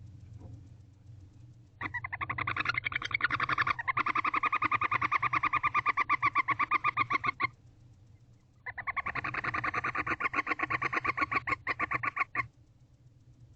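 Barn owl giving two bouts of rapid, pulsed twittering, about nine notes a second, each bout lasting several seconds with a short break between them.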